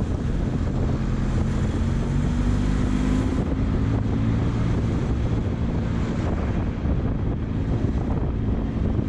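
Benelli motorcycle engine running at cruising speed under way, its low hum rising slightly a few seconds in, with wind rushing over the helmet-mounted microphone.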